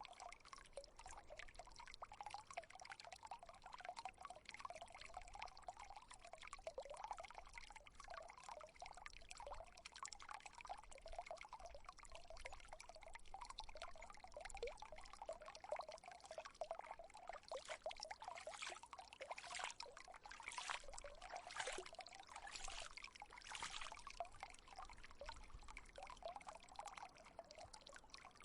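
Water fountain trickling and splashing steadily and quietly, with a run of brighter splashes about two-thirds of the way through.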